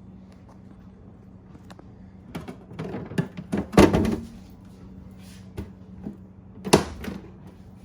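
Refrigerator door being swung and jerked open and shut: a cluster of knocks and rattles from about two and a half to four seconds in, loudest near four, then one sharp thump near the end. A steady low hum runs underneath. The door is being tested to see whether the repaired inner compartment now stays closed.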